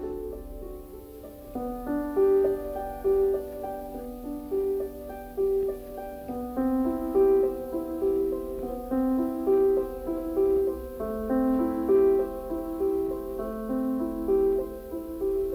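Background music: a gentle piano piece playing a repeating melody over held lower notes.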